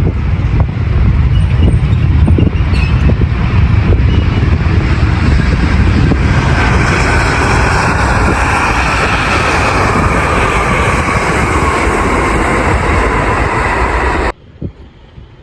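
Jet airliner on landing approach passing close by: a loud, steady rumble, with an engine whine that slowly falls in pitch as it goes past from about six seconds in. The sound cuts off suddenly about a second before the end.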